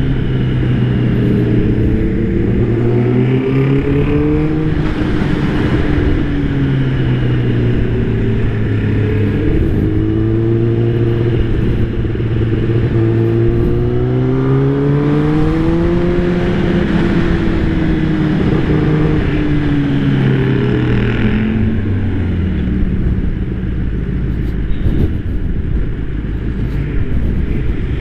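Kawasaki ZX-10R's inline-four engine running under way, over steady wind noise. Its pitch climbs through the middle and falls back near the end as the throttle is opened and closed.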